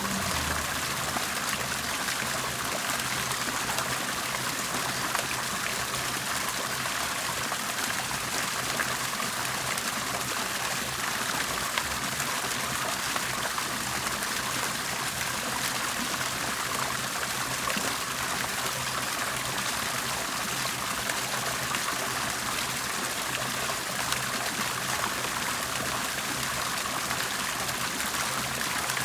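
Water bubbling and trickling steadily, a continuous gurgling splash with no pauses.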